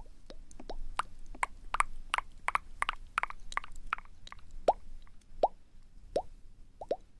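Close-miked ASMR mouth sounds: wet tongue clicks and lip pops, a quick run of sharp clicks in the middle and single pops that rise slightly in pitch at about one or two a second.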